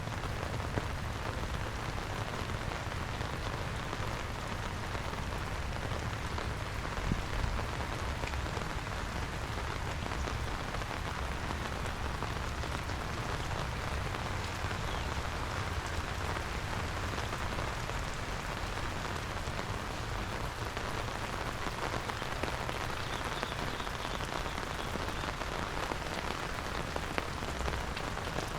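Steady rain falling, an even hiss with a few louder drop ticks.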